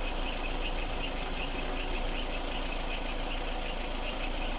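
Lada Kalina engine idling, with a short high-pitched whistle repeating about three times a second from the timing belt drive. The owner suspects a non-original timing belt or its tensioner roller.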